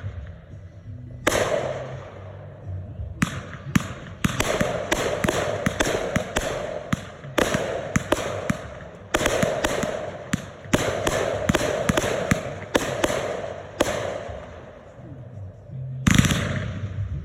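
Consumer fireworks going off: a rapid, irregular series of sharp bangs from mortar shells bursting, each trailing off in a short fading rush. There is a brief lull shortly before the end, then a loud bang.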